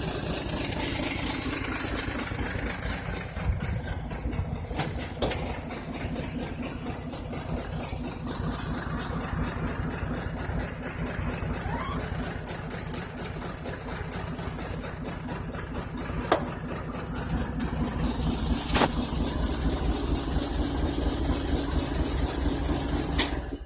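1946 International K1 pickup's Green Diamond 213 straight-six running at idle, misfiring on cylinders 3 and 5 because their valves are pitted. The idle gets louder for the last several seconds, and a few sharp clicks sound over it.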